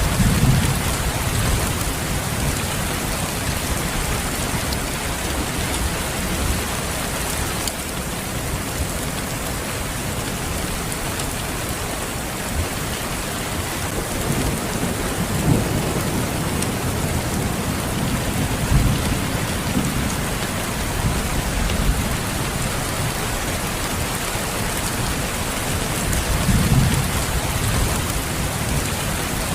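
Steady rain with low rumbles of thunder rolling in near the start, several times in the middle, and again near the end.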